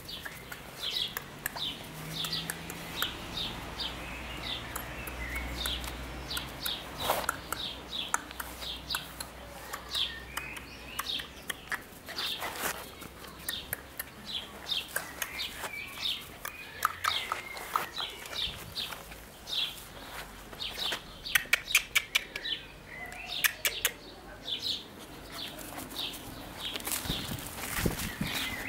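Small songbird chirping over and over, short high chirps about twice a second, with scattered sharp clicks and knocks and a quick run of them about three-quarters of the way in.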